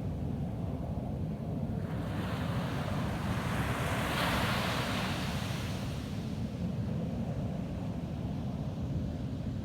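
Ocean surf on a beach: a steady low rumble of breaking waves, with one wave washing in about two seconds in, swelling to a hiss and fading away a few seconds later.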